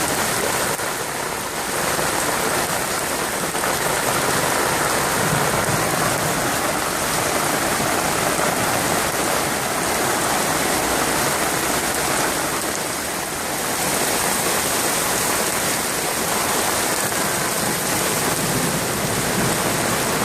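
Rain falling steadily, a loud even hiss that eases briefly about a second in and again about two-thirds of the way through.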